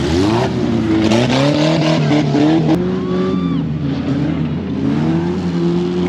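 An off-road truck's engine revving hard, its pitch jumping up about when it opens and then rising and falling repeatedly as the throttle is worked.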